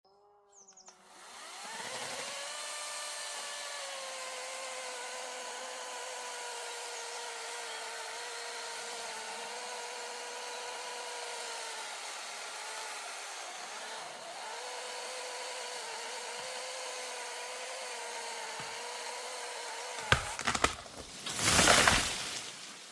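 Einhell GP-LC 36/35 36-volt cordless chainsaw spinning up and running at a steady electric whine, with slight dips in pitch as it cuts through wood. Near the end the motor stops with a sharp click, followed by a loud burst of noise about a second long.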